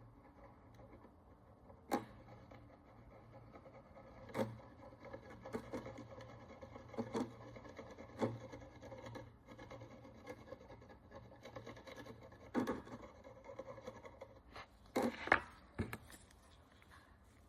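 A small hand tool picks and scrapes at the encrusted surface of an ancient bronze coin, giving irregular short clicks and scratches, with the busiest, loudest cluster near the end. A faint steady hum runs underneath.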